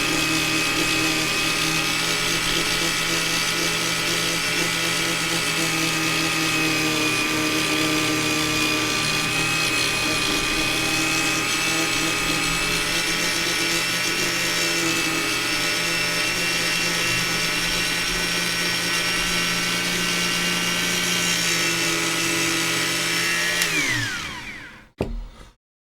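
Small electric power tool motor running steadily at one speed, then switched off. Its pitch falls as it spins down, and it stops near the end, with a short knock just after.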